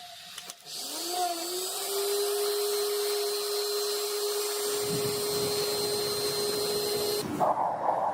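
An electric power tool starts up: its motor whine rises and settles to a steady pitch with a hiss over it. Near the end the sound changes abruptly to a harsher, noisier one.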